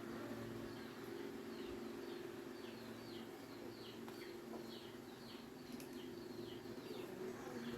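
Bird calls: a run of short falling chirps, two or three a second, over a steady low hum.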